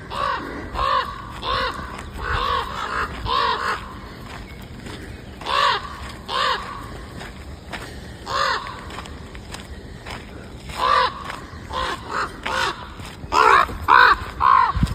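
Crows cawing: a run of short, harsh caws, sparse in the middle and crowding together near the end.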